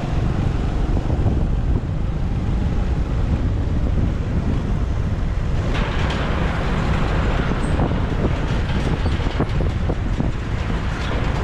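Wind buffeting the microphone of a moving motorbike, a steady low rumble mixed with engine and road noise. About halfway through, a brighter hiss of traffic comes up, with a few short sharp ticks.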